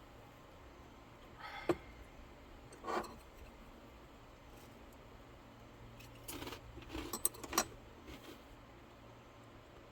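A few light clicks and knocks of small objects being handled: a single click, then another, then a short cluster of clicks and rattles near the end, over a faint steady background.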